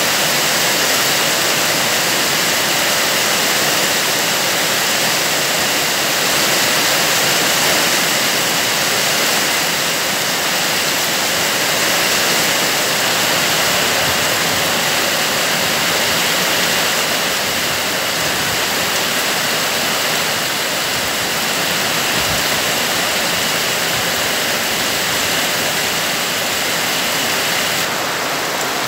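Heavy rain pouring down steadily, a loud, even hiss of a downpour.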